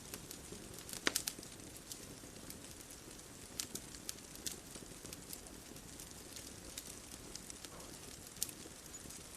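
Wood fire crackling: sharp irregular pops and snaps, a quick cluster of them about a second in, over a steady low hiss and rumble of burning.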